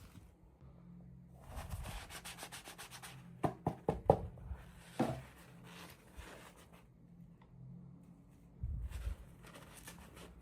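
Hands handling and opening toy packaging: rubbing and scratching, with a run of rapid scratchy ticks, then a few sharp clicks, and a soft thud near the end.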